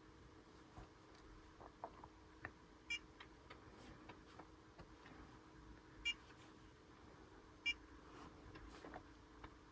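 A handheld diagnostic scan tool gives three short, high beeps a few seconds apart as its keys are pressed, over a faint steady hum.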